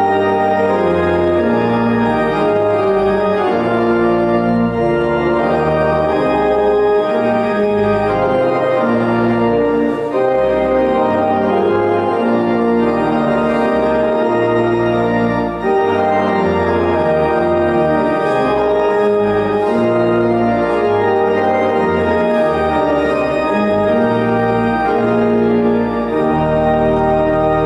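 Church organ playing a slow piece of sustained chords, the notes held and changing about every second.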